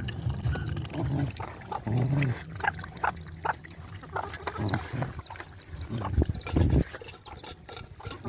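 Several dogs eating: wet chewing and smacking clicks, with low growls every few seconds.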